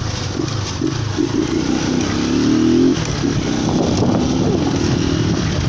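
Motorcycle engine running under way, picked up on a phone microphone with road and wind noise; it climbs in pitch for about a second, then drops abruptly about three seconds in, as at a gear change, and carries on.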